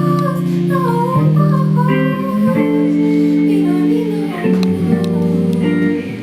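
Live indie soul band music: guitar chords that change every second or so, with a wavering melody line above them.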